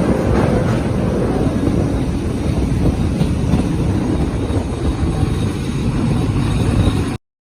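Steady rumble of a train running on the rails, cutting off abruptly about seven seconds in.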